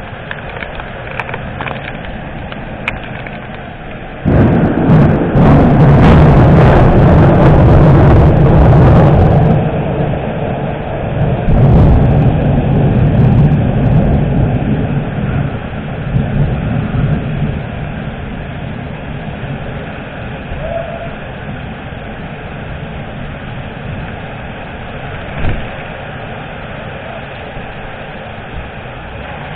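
Thunder in a rainstorm: a sudden loud crack about four seconds in rolls into a deep rumble for several seconds, swells again and fades. Steady rain hiss runs underneath.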